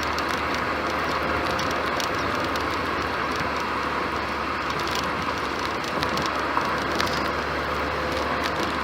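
Ford Fiesta 1.2 16v four-cylinder petrol engine running steadily through its stock exhaust: a low even hum under a steady hiss, with no change in revs.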